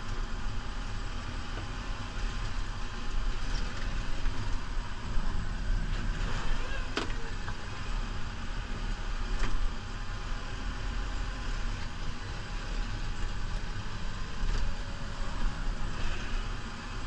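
New Holland Powerstar 75 tractor's diesel engine running steadily while plowing snow, with one sharp click about seven seconds in.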